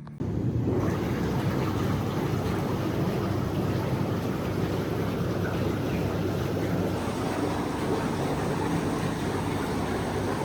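Steady rushing roar of wind buffeting the microphone over breaking ocean surf, starting and cutting off abruptly.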